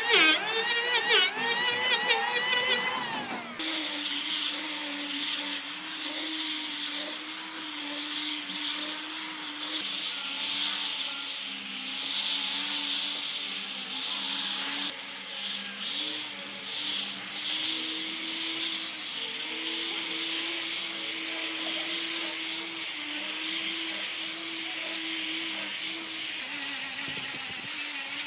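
Electric power tool running at a steady pitch with a high hiss above it. In the first few seconds a sound with a wavering pitch comes before it.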